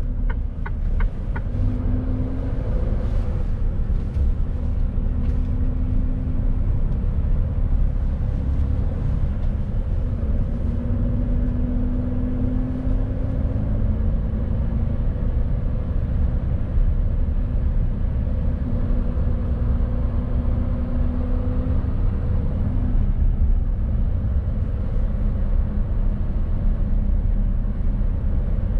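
Mercedes Actros truck laden with about 19 tons, driving along: a steady low engine and road rumble with a droning tone that rises and falls slightly. There is a brief run of quick ticks at the very start.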